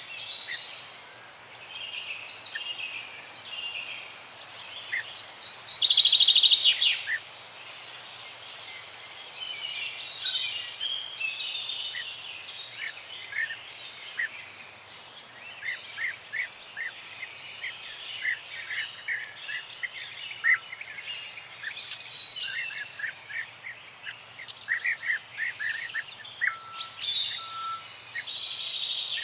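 Several songbirds chirping and singing over one another, with a loud, fast trill about five to seven seconds in and repeated short whistled notes after it, over a steady background hiss.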